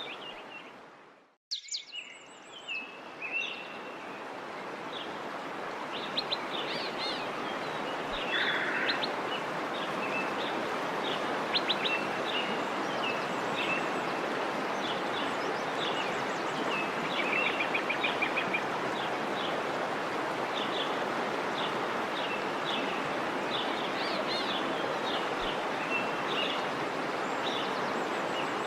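Small birds chirping repeatedly over a steady outdoor background hiss. The sound cuts out briefly about a second in and fades back up.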